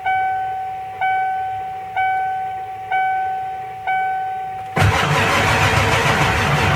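The truck's warning chime dings about once a second, five times, with the key on. About 5 seconds in, the 7.3L Power Stroke V8 turbo-diesel cranks and fires into a steady loud run.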